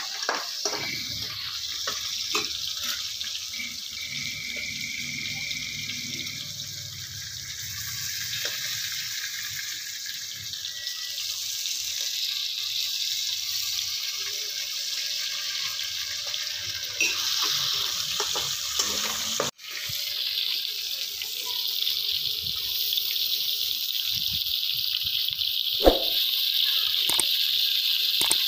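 Chicken and onions frying in a pan on a gas burner: a steady sizzle with occasional light clinks of a metal spatula against the pan, and one sharp knock near the end.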